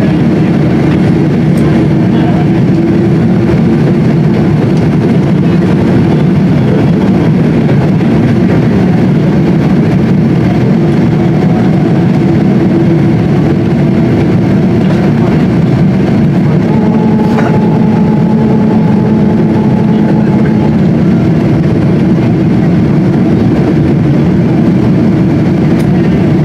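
Steady engine and airflow rumble inside the cabin of a Boeing 777-200 airliner, loud and even, with faint steady tones riding on it.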